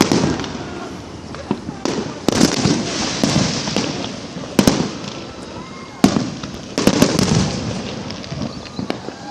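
Fireworks going off: repeated sharp bangs a second or two apart, several followed by a spell of crackling.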